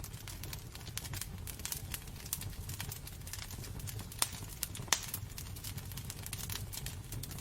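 Wood fire burning in a fireplace: a steady low rumble of the flames with frequent small crackles and two louder pops a little past the middle.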